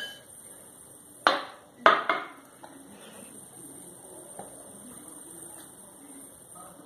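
A spoon knocking twice against a mixing bowl while flour is spooned in, the knocks about half a second apart and the second ringing briefly.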